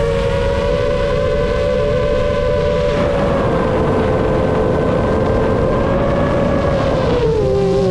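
FPV quadcopter's motors and 7-inch propellers whining in flight, a steady multi-tone hum over rushing air that dips in pitch about three seconds in and again near the end as the throttle changes.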